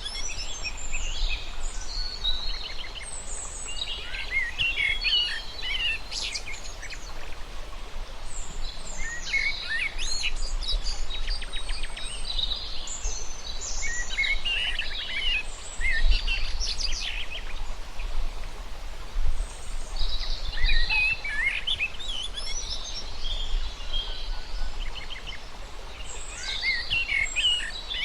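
Several birds chirping and singing in repeated short phrases of high notes, over a steady low rumble.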